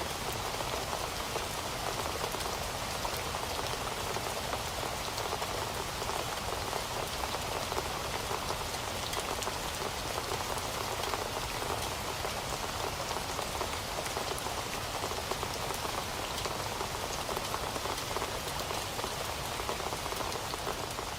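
Heavy rain falling steadily, a dense patter of drops on a hard surface with a fine crackle of individual drops.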